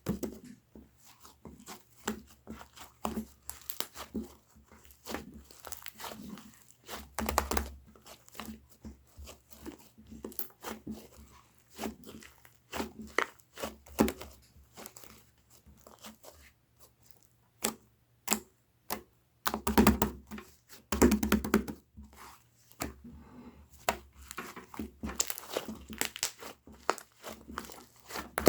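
Slime being kneaded, stretched and poked by hand, giving an irregular run of sticky crackles, clicks and little pops, with louder squelching presses about a quarter of the way in and again about two-thirds of the way through.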